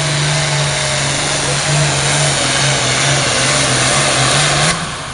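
Pulling tractor's engine running loud and steady at full throttle under load, with heavy exhaust noise; the throttle is cut sharply near the end.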